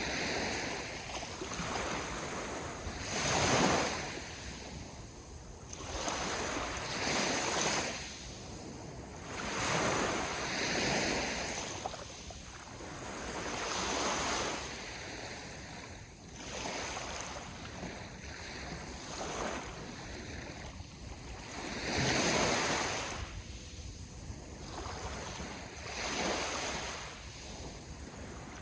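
Sea waves washing in on the shore, in repeated surges a couple of seconds apart.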